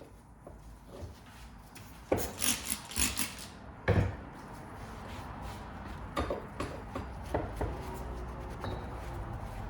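Several quick scraping strokes, then a sharp knock and a few lighter clicks, as metal driveshaft parts are worked and handled on the bench.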